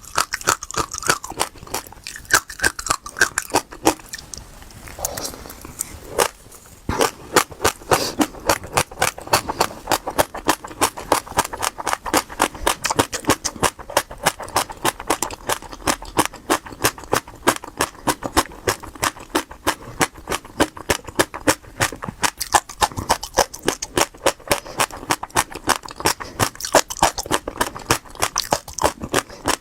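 Passion fruit seeds crunching in the mouth as they are chewed: rapid crisp cracks, a few a second, with a short lull about five seconds in.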